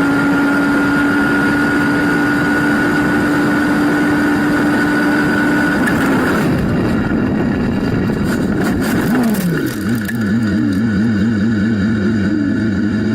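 Racing engine running at steady high revs, then after a cut about six seconds in, engine revs rising and falling quickly over and over, about three times a second.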